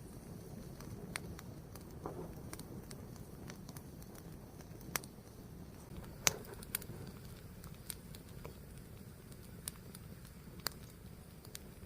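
Fire burning with a low steady rush and irregular sharp crackles and pops, the loudest pop about six seconds in.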